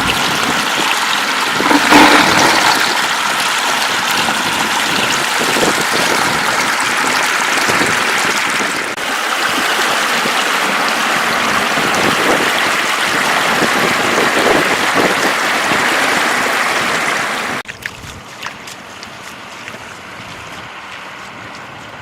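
Floodwater flowing and rushing in a steady loud wash, with a louder swell about two seconds in; near the end it cuts down suddenly to a much quieter level.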